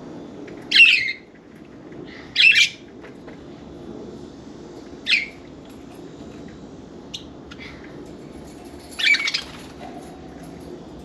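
Budgerigars calling: four short, loud squawks a few seconds apart, with a couple of faint chirps between them, over a steady low background hum.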